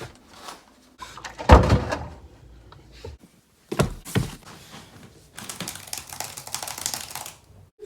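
A door thunks, with a few more knocks and then a couple of seconds of small clicks and rustling handling noise, as of kitchen doors being opened and shut and things being moved.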